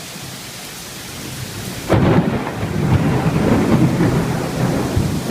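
Heavy rain falling steadily, then a sudden loud crack of thunder about two seconds in that rolls on as a deep rumble under the rain.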